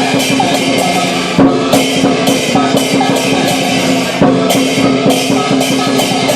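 Lion dance percussion playing a steady driving rhythm: a large Chinese drum beating under clashing cymbals and gong, with a cymbal crash about twice a second.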